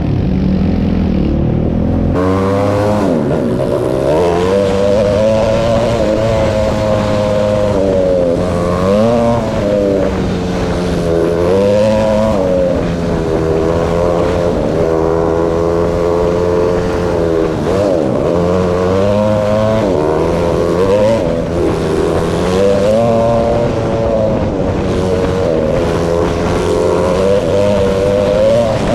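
Quad ATV engine riding a trail, its pitch rising and falling over and over with the throttle. The engine note changes abruptly about two seconds in.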